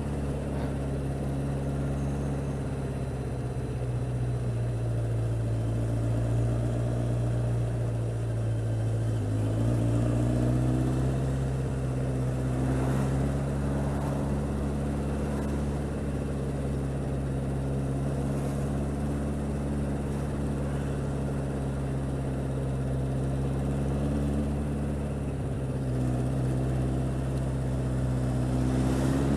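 Yamaha XJR1300's air-cooled inline-four engine running steadily at riding revs, its pitch dipping and rising a little about ten seconds in and again near the end.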